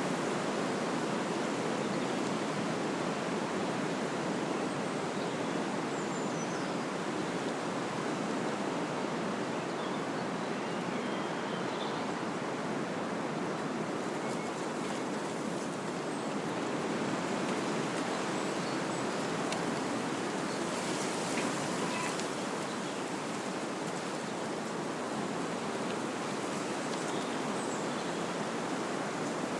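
Wind blowing through trees: a steady rushing of leaves and branches, with a few faint high chirps above it.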